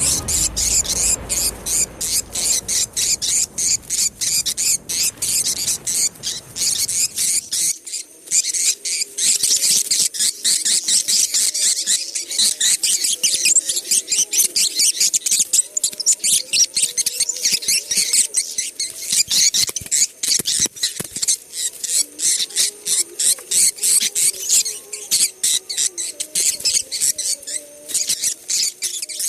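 Recorded white-nest swiftlet call used as a lure sound for swiftlet houses: a dense, fast, high-pitched twittering of many chirps a second. A low hum lies under it for the first seven seconds or so, then faint low wavering tones.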